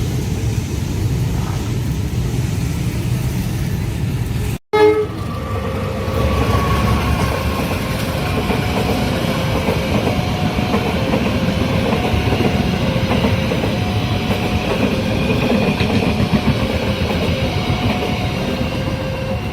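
A train running past with a steady low rumble, while a level-crossing warning alarm sounds a repeating two-note signal, alternating a lower and a higher tone.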